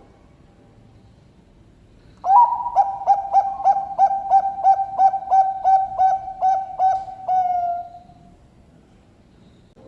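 Zebra dove (Bangkok-bred perkutut) singing one song phrase about two seconds in: an even series of about fourteen coo notes, roughly three a second, ending in a long drawn-out note that fades.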